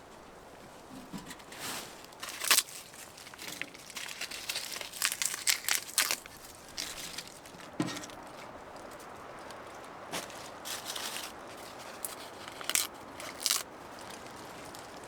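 Irregular crinkling and crunching with scattered sharp snaps and clicks, as of material being handled or crushed close by, loudest around the middle.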